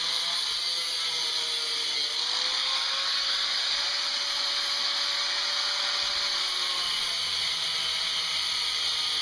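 Small handheld power tool running at high speed, grinding the edges off small metal knobs. Its motor pitch sags about two seconds in as it bites, then recovers.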